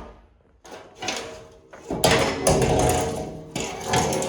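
Thin sheet aluminum being handled and worked, rattling and scraping with a metallic ring, after one sharp knock at the start.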